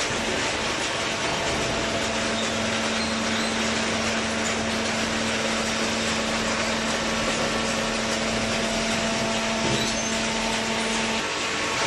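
Automatic horizontal hydraulic baler running: steady machine noise with a steady hum that stops about eleven seconds in.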